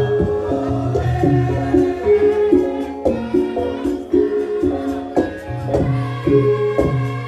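Javanese gamelan music, struck metal tones playing a repeating stepped melody over a low accompaniment.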